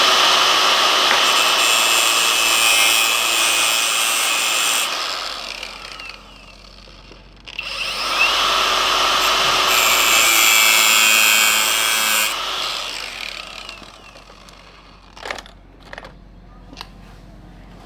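Handheld power tool running in two bursts of about five seconds each, trailing off after each one. A few small sharp clicks follow near the end.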